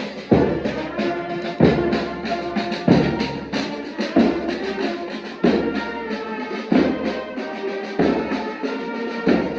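Brass and percussion band playing a march: sustained brass chords over a heavy drum beat that falls about every 1.3 seconds.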